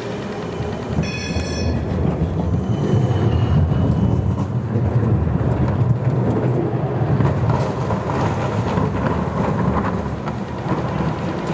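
Amsterdam tram passing on street track, its low rumble building, holding, then easing off toward the end. A brief high ringing chime sounds about a second in.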